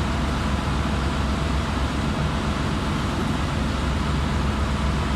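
Steady drone of running machinery, with a constant low hum under an even rushing noise, the background of an engine room.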